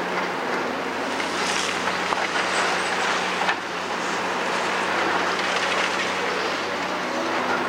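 Large tracked demolition excavator running steadily with a constant diesel hum, while rubble and metal clatter and knock irregularly.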